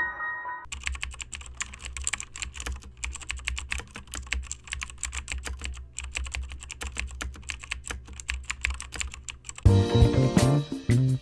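Rapid, irregular clicking over a low steady hum, like keys being typed. Music with a beat comes in near the end.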